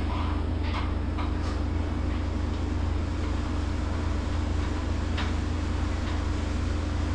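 Steady hum of the walk-in meat cooler's refrigeration fans, a low drone with an even hiss over it, with a few faint knocks about a second in and again about five seconds in.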